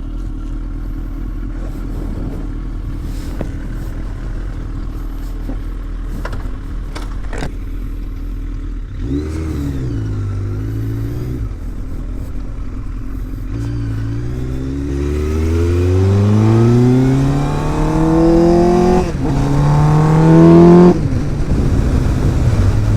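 Suzuki Bandit 1250's inline four-cylinder engine, breathing through an aftermarket exhaust and extractors: it idles steadily, gives a short rev, then accelerates with its pitch climbing for several seconds. There is a brief dip near the top before it eases off and settles.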